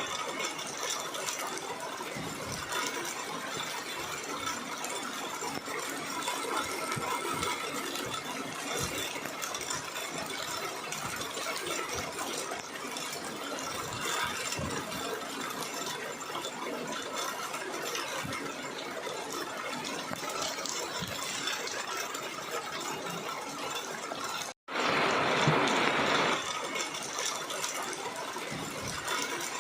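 Rain falling: a steady patter of many small drops. Near the end it cuts out for an instant and comes back louder for about a second and a half before settling.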